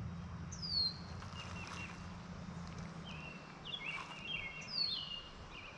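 Wild birds calling: two sharp falling whistles, one about half a second in and one near the end, with a run of short chirps stepping between pitches in between, over a faint steady low background rumble.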